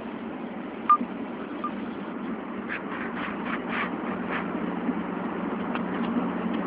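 Steady road and tyre noise of a car driving on the highway, with a sharp click about a second in and a run of short scraping or squeaking sounds in the middle.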